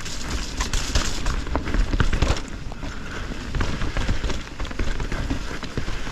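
Mountain bike riding fast down a rough, rooty trail: tyres on wet dirt, with continual rattling and clattering of the frame, chain and suspension over roots, and wind rumble on the mount.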